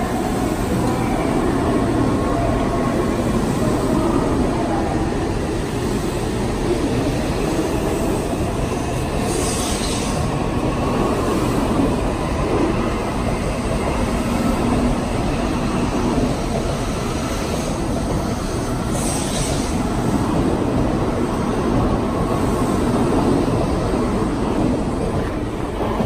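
500 Series Shinkansen train running with a steady, loud rumble, with two brief hissing sounds, about ten and nineteen seconds in.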